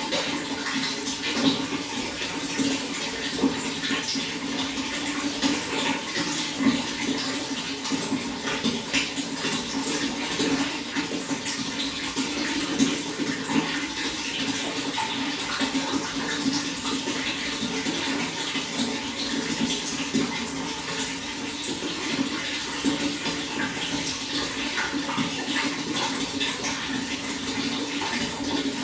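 Running water splashing and gurgling steadily, with many small splashes and no pauses.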